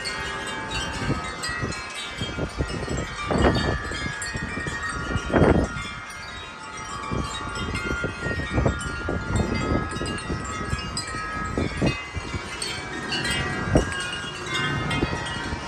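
Wind chimes clanging and ringing continuously in strong gusty wind, many overlapping bell tones, with wind buffeting the microphone in repeated low rumbles, strongest about three and five seconds in.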